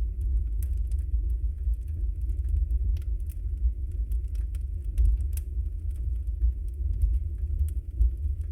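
Wood fire burning in a fireplace: a steady low rumble of the flames with frequent small, sharp crackles and pops from the burning logs.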